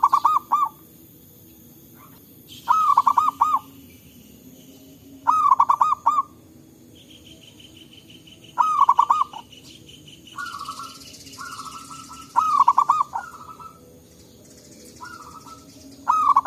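Zebra doves (perkutut) cooing: loud phrases of quick, rolling coos repeat every few seconds, with softer, shorter phrases between them in the second half. A faint, high, pulsing buzz runs in the background through the middle.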